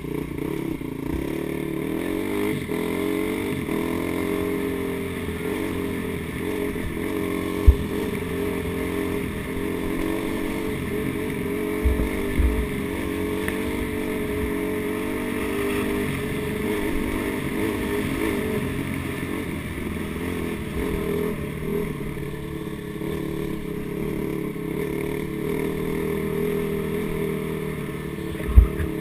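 Dirt bike engine running at low to moderate revs, its pitch rising and falling with the throttle. A few sharp thumps break in, the loudest about eight seconds in.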